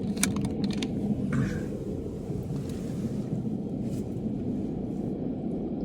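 Steady low rumble of a moving car-carrying shuttle train, heard from inside a car riding on it with its engine off. A few light clicks in the first second.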